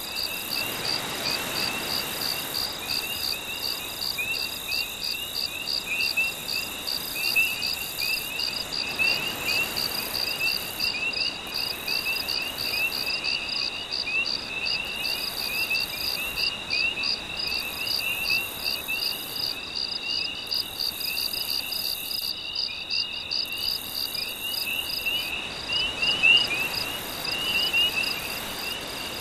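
Night chorus of crickets and other insects, with a fast, steady pulsing trill, over many short frog-like chirps. Gentle sea waves wash softly underneath, swelling now and then.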